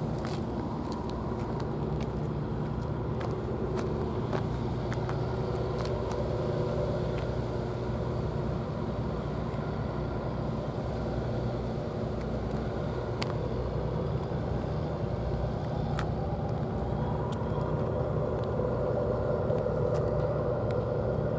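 An engine running steadily: a continuous low rumble with a steady hum, swelling slightly near the end.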